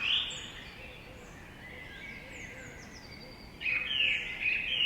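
Several wild birds singing and chirping at once, in short whistled notes and trills, with a louder burst of calls in the last second or so.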